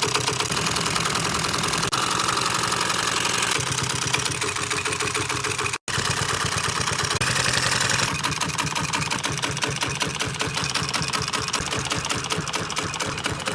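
Industrial sewing machine stitching vinyl upholstery, running fast and steadily, broken by a few abrupt cuts.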